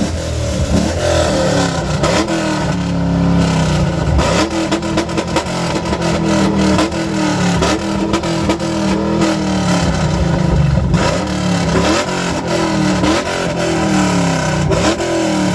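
Car engine revved hard over and over, its pitch climbing and dropping roughly once a second.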